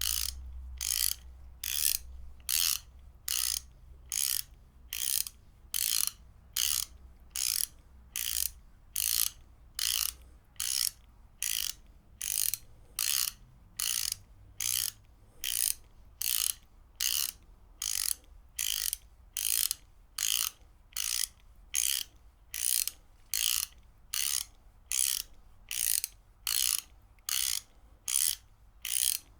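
Ratchet wrench clicking in short, even bursts, a little more than one a second, as the handle is worked back and forth without pause.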